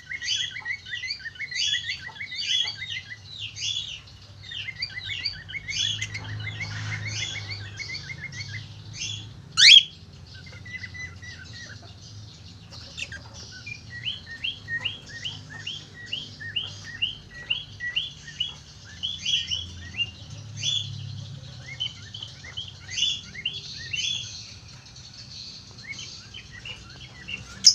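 A flock of cockatiels chirping, many short calls overlapping without a break. About ten seconds in, one loud call sweeps upward in pitch, louder than the rest.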